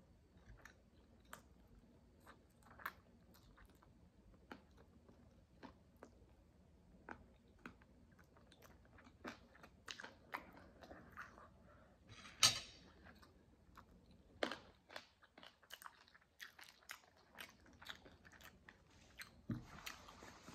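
Close-miked chewing of jerk chicken and rice: soft wet mouth sounds with scattered crisp little crunches and smacks, and one louder crackle a little past the middle.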